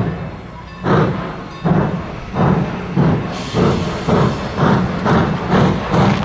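Steam locomotive chuffing as it pulls away, its exhaust beats coming closer together as it picks up speed.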